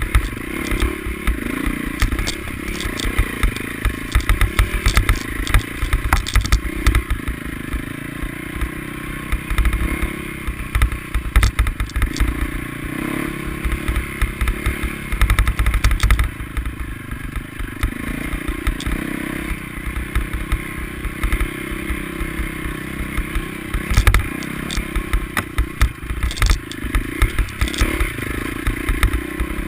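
Motocross motorcycle engines revving up and falling back over and over, with frequent low thumps and clatter.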